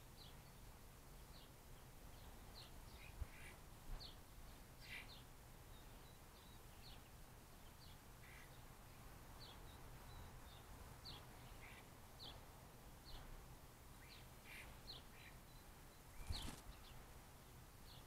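Birds calling faintly with short, high chirps, about two a second, around a seed-strewn patch of snow. Near the end comes a brief soft thump.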